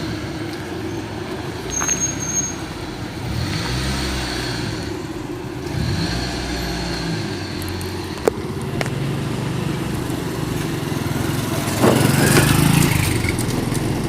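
A 1992 Mitsubishi Lancer Dangan's 1600 cc engine running while the car is driven, with road noise; the engine note shifts in pitch a few times. There is a sharp click about eight seconds in, and the sound grows louder near the end.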